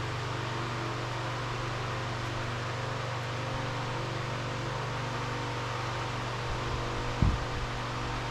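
Electric fan running with a steady hum and hiss, and one short knock about seven seconds in.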